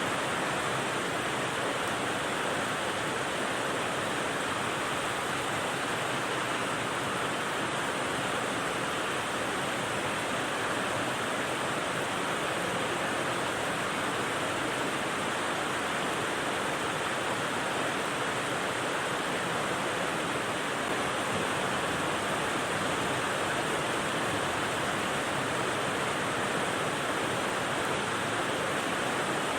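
White-noise rain for sleep: a steady, even hiss that holds level throughout, strongest in the middle and upper range, with no single drops or thunder standing out.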